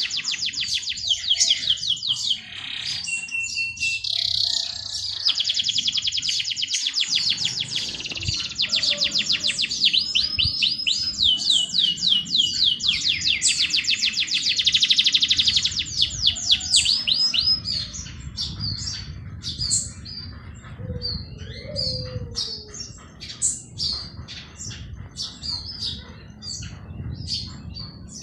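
Small songbirds singing: fast trills of rapidly repeated high notes for the first two-thirds, thinning to scattered separate chirps near the end, over a faint low rumble.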